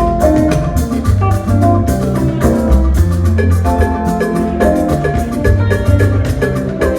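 Yoruba gospel band music in an instrumental stretch between sung lines: a drum and bass groove under quick, short melody notes.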